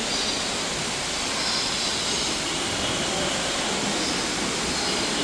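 Steady, even rushing noise through the aviary, with faint, short high bird chirps now and then.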